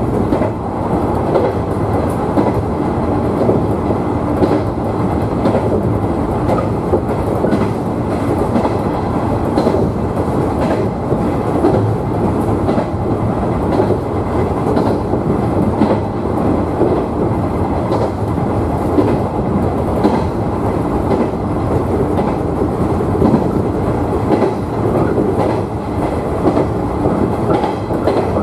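JR 113 series electric multiple unit running between stations, with a steady rumble of wheels on rails and scattered clicks over rail joints.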